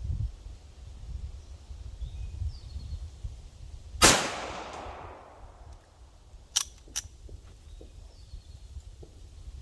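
A single shot from a prototype pistol about four seconds in, ringing off over about a second and a half. Two sharp clicks follow about two and a half seconds later, over a low rumble of wind on the microphone.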